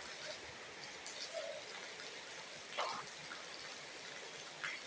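Steady rain falling, an even hiss of water, with two brief sharper sounds, one about three seconds in and one near the end.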